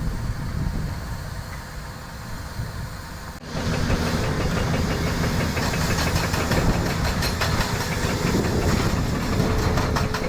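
A train running, with a steady hiss. The sound changes suddenly about three and a half seconds in and is louder afterwards, with fine regular clicking.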